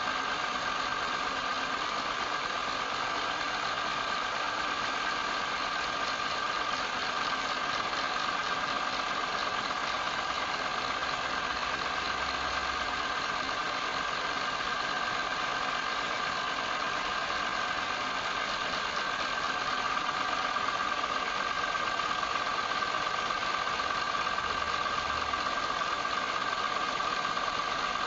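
Wood lathe running steadily, its motor giving an even whine over a constant mechanical hum.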